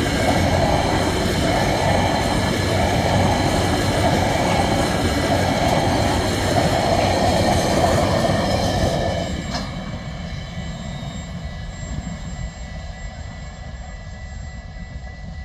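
Empty container flat wagons of a freight train passing close at speed: a loud clatter of steel wheels over the rails with a regular beat. About nine seconds in it drops to a quieter, fading rumble as the train draws away.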